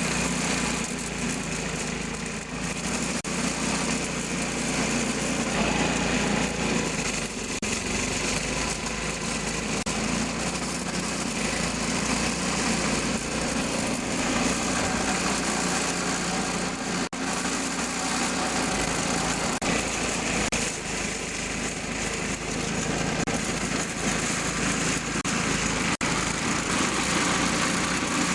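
Old 4 hp MTD snowblower's small single-cylinder engine running steadily. The owner calls it smooth for a machine of about 30 years, freshly serviced at the carburettor.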